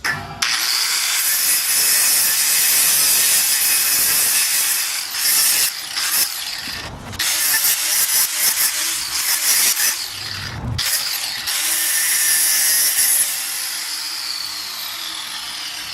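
A power tool cutting with a harsh, steady hiss, which stops briefly twice and then winds down with a falling whine over the last few seconds.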